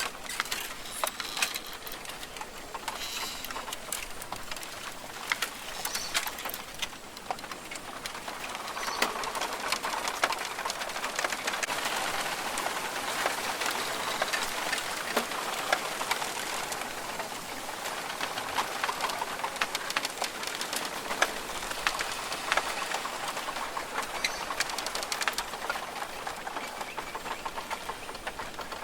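Rainforest ambience: birds calling, with many short sharp chirps and clicks over a steady hiss that swells about eight seconds in.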